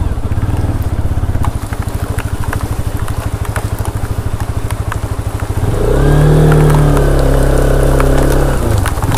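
Bajaj Pulsar RS200 single-cylinder four-stroke engine running at low revs with a rapid, even putter. About six seconds in, the revs pick up to a louder, steadier drone as the bike pulls away, and it drops off briefly near the end.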